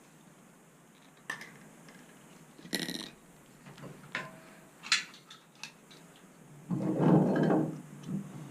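Light metallic clicks and knocks of shower head fittings being handled, then a louder, longer rubbing and rattling sound starting about two-thirds of the way in.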